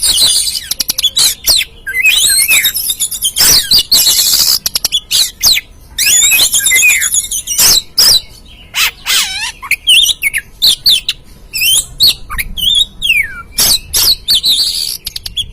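Oriental magpie-robin (kacer) singing a fast, varied song of sweeping whistles, chattering trills and sharp clicky notes with brief pauses between phrases.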